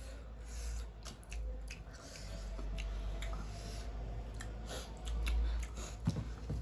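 Close-up mukbang eating sounds: chewing with wet mouth noises and many short, sharp clicks.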